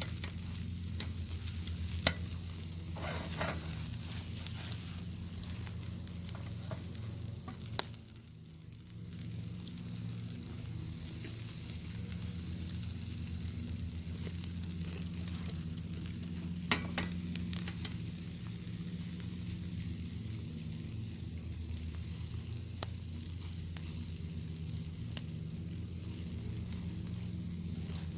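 Bacon frying over an open fire: a steady sizzle with scattered sharp pops, dipping briefly about eight seconds in.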